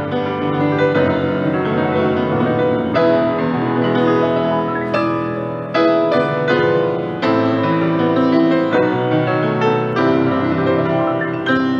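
Solo piano playing a slow, gentle piece, with chords struck every second or so and left to ring.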